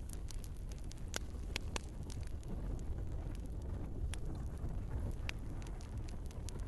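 Wood fire burning in a fireplace: a steady low rumble of flames with scattered sharp crackles and pops from the logs, a few louder pops standing out.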